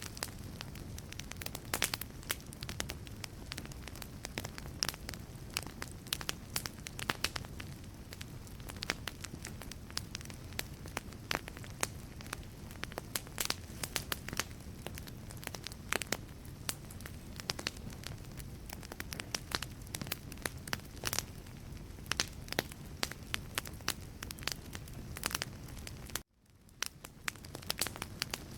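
Wood fire burning in a fireplace: a dense, irregular run of sharp crackles and pops over a steady low rumble. About twenty-six seconds in, the sound cuts out suddenly and then fades back in.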